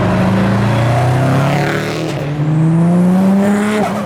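Turbocharged modified car accelerating hard. The engine note rises, drops at a gear change about two seconds in, climbs again and falls as the throttle is lifted near the end.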